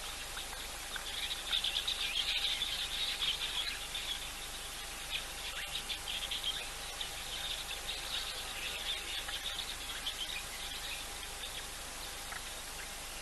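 Wild birds calling in rapid high chirps, loudest from about one to four seconds in and again around eight seconds in, over a steady hiss and a faint steady tone.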